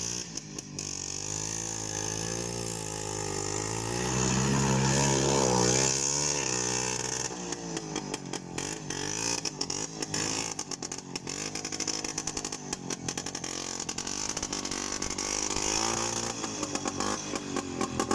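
Planeta quad bike's engine revving as it pulls through snow and slush, its pitch rising and falling, loudest about four to six seconds in, then running unevenly in short surges.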